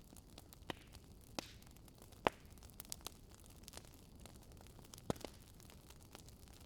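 Wood fire crackling in a modern wood-burning fireplace: scattered sharp pops over a faint steady hiss. The loudest pop comes a little over two seconds in, and another about five seconds in.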